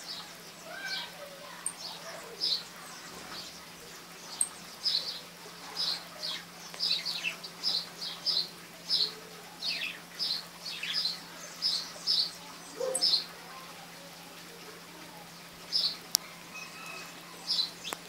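Small birds chirping: a run of short, high chirps, some sliding down in pitch, coming about two a second and thickest in the middle, with a single sharp click near the end.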